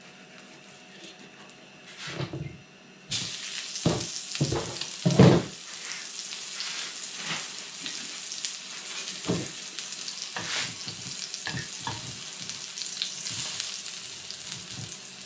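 Food frying in hot oil in a pan on a portable gas camping stove. About three seconds in a halved tomato goes into the pan and a loud, steady sizzle starts at once. Several knocks of the food and tongs against the pan come in the first few seconds, with a few lighter clinks later.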